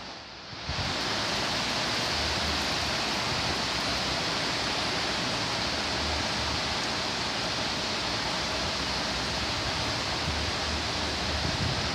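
Torrential tropical-wave rain pouring down in strong wind: a dense, steady rushing hiss that starts abruptly within the first second, with uneven low rumbling from the gusts underneath.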